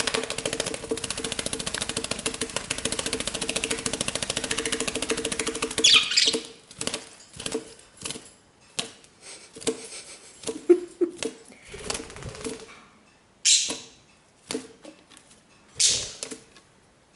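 Baby budgerigar flapping its wings: a fast, continuous run of wingbeats for about six seconds, then a string of short separate bouts of flapping.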